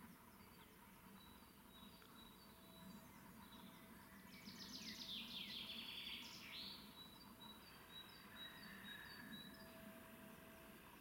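Faint woodland birdsong: a thin high call repeated about twice a second, and about four seconds in a louder, rapid series of falling calls lasting a couple of seconds.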